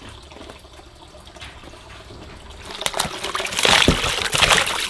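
Water pouring and splashing, starting about three seconds in and getting louder.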